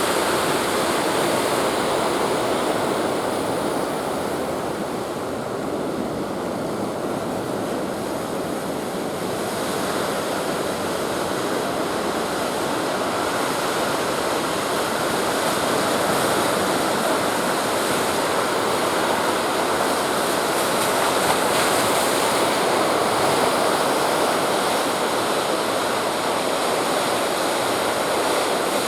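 Sea surf and wind: a steady rushing roar of waves with no distinct breaks or engine sound, easing slightly for a few seconds near the start.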